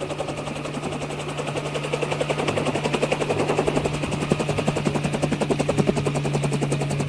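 Helicopter running, with a very fast, even rotor chop over a steady engine hum. It grows louder over the first few seconds, then eases slightly toward the end.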